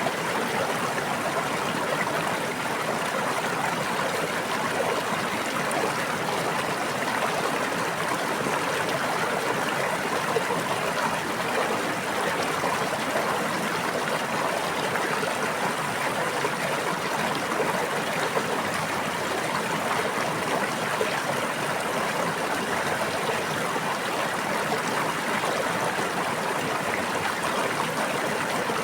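A stream of water babbling and trickling over rocks, steady and even throughout.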